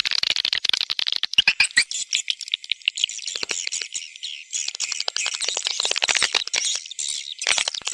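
Swiftlet call recording used to lure swiftlets to a nesting house: a dense chatter of rapid clicks and high twittering chirps.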